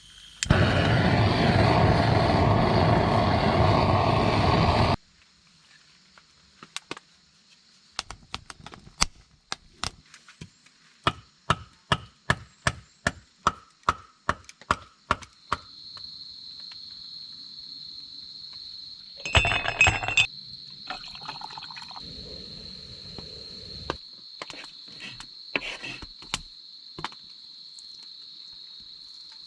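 A mix of camp sounds. A loud rushing noise runs for about four seconds near the start. Then come regular chopping knocks, about two a second, of wood being split. After that a steady high insect trill sets in, broken by a short clatter.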